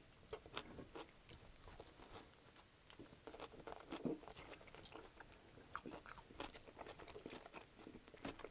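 Close-miked chewing of a grill-pressed sub sandwich with ranch dressing: quiet, wet mouth sounds broken by scattered short crisp clicks.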